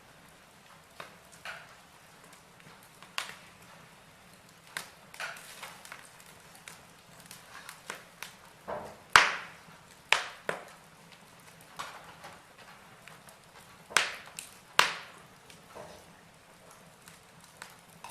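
Wood fire of burning logs crackling: irregular sharp pops and snaps over a faint steady hiss, with a few louder cracks about halfway through and near the end.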